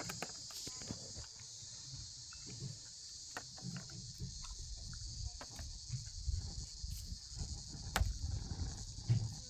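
A steady chorus of insects, with scattered sharp knocks and irregular low thuds, the loudest knock about eight seconds in.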